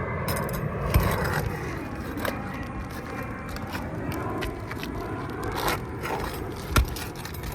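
A tool scraping and prying under asphalt shingles to pull roofing nails, with scattered sharp clicks and knocks, the loudest a little before the end. A nail is tearing through the brittle shingle as it is pulled.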